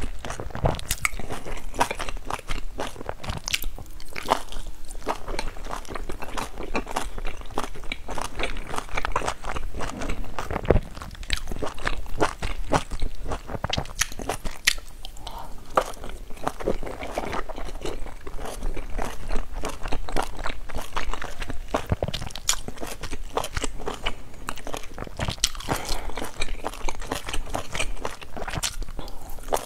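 Mouth sounds of a person biting and chewing dumplings dipped in sauce: a steady run of short wet smacks and clicks.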